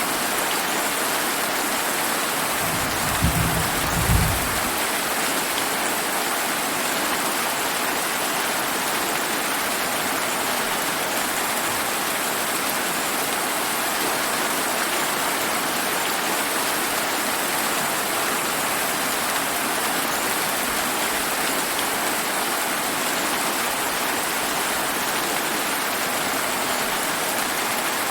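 Steady, dense rainfall with a brief low rumble about three to four seconds in.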